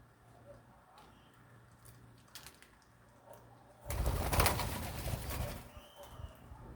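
Birds cooing softly, with a loud noisy burst about four seconds in that lasts under two seconds.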